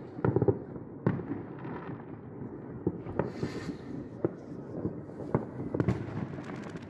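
New Year fireworks going off across the city: irregular bangs and pops, a few louder ones close together, over a constant rumble of more distant bursts.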